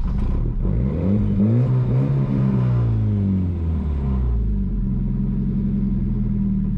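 Volvo 940 Turbo's turbocharged four-cylinder engine idling, revved once: the pitch climbs about half a second in, holds for a couple of seconds, then falls back to a steady idle about four seconds in. It is running on a freshly fitted MAF sensor, in a test of whether a long-standing lean fueling fault is cured.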